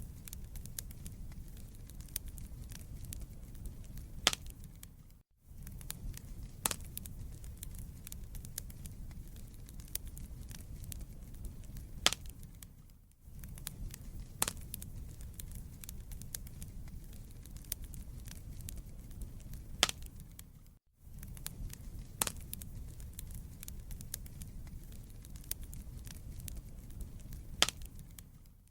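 Wood fire burning in a fireplace: a steady low rumble of flames with irregular sharp crackles and a few louder pops of the burning logs. The sound briefly fades out and back three times.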